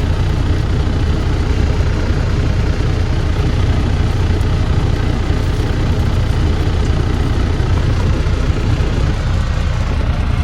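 Truck engine running steadily, a loud, even low rumble with a haze of cab and road noise over it.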